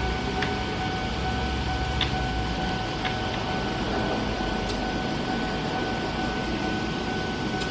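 Eizan Railway 800 series electric railcar standing at the platform, its air conditioning and onboard equipment humming steadily, with a steady whine and a low rumble underneath and a few faint clicks.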